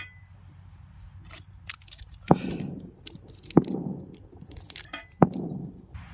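Three sharp knocks about a second and a half apart, each followed by a short crunching scrape, with light clinks in between.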